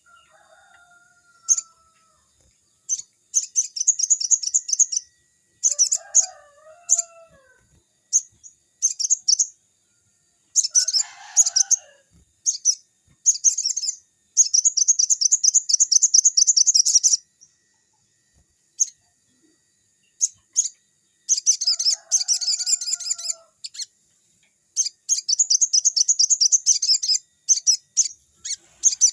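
Sogon (sunbird) singing: bursts of rapid, very high-pitched twittering trills, some short and some running two to three seconds, with pauses between them. A few lower, gliding notes break in now and then.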